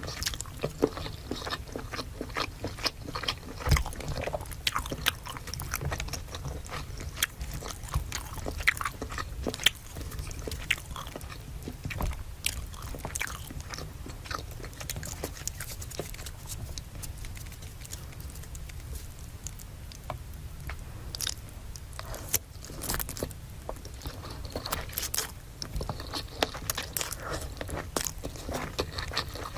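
Close-miked eating: irregular crisp crunches and chewing of crunchy fried food, with clusters of crackly bites.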